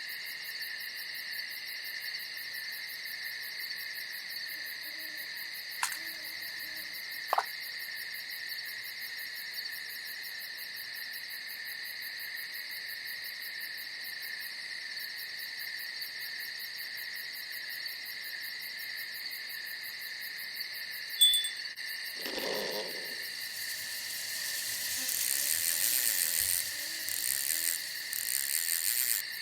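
Night insects, crickets, chirping in a steady high-pitched chorus that grows louder near the end. A single low hooting call of about a second comes a little after two-thirds of the way through, with a few faint sharp clicks earlier.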